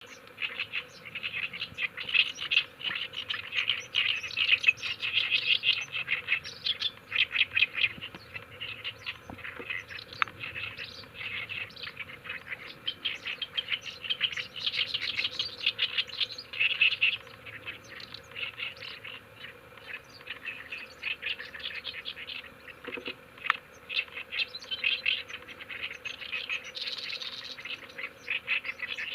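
Oriental reed warbler singing: a noisy, continuous run of rapid, harsh, grating chattering phrases.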